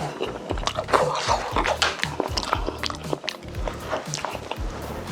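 Close-miked chewing and biting of braised chicken: a quick run of irregular wet clicks and smacks from the mouth.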